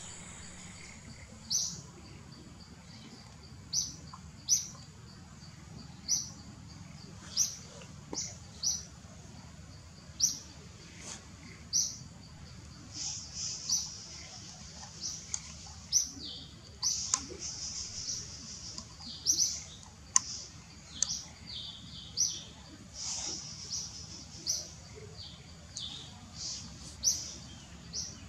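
Small birds chirping: short, high chirps repeated every second or two, over a faint steady background hum of forest ambience.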